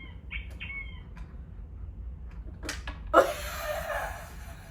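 A dog gives a few short, high whining cries that fall in pitch. About three seconds in there is a sharp click, then a loud rustling burst lasting about a second.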